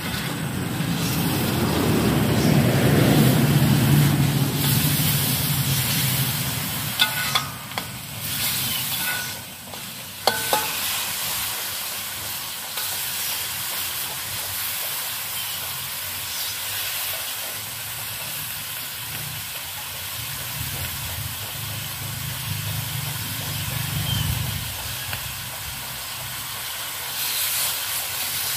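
Chicken pieces sizzling steadily as they fry in oil in a metal wok on a portable gas stove, while a metal spatula stirs and scrapes the pan, with a few sharp knocks of the spatula against the wok about seven to ten seconds in. A low rumble swells over the first few seconds and again about twenty seconds in.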